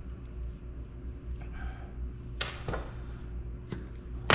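A few sharp clicks and knocks from small objects being handled, with a louder click near the end, over a steady low hum.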